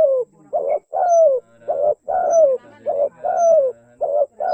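Spotted dove (tekukur) cooing over and over: a short note followed by a longer falling coo, repeated about once a second.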